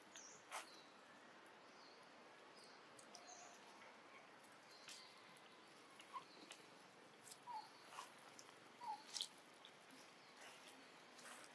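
Near silence, with faint, scattered short animal chirps and a few light clicks.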